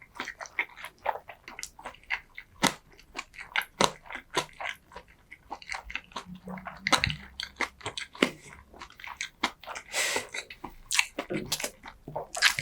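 Close-miked eating sounds: wet, crunchy chewing and biting, a quick irregular run of sharp smacks and clicks, several a second.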